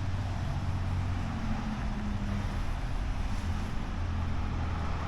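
Steady low drone of a running vehicle.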